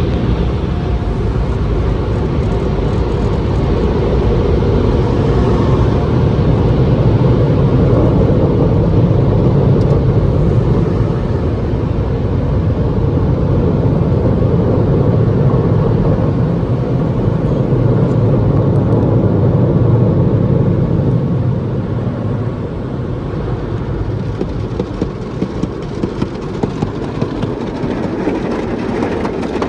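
Sonny's tunnel car wash machinery working over a car, heard from inside the cabin: a loud, steady rushing noise that eases a little after about twenty seconds, with a few light knocks near the end.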